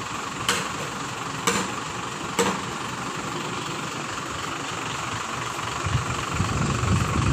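Tow truck engine idling steadily, with a sharp knock about once a second for the first few seconds. A deeper, louder rumble builds near the end.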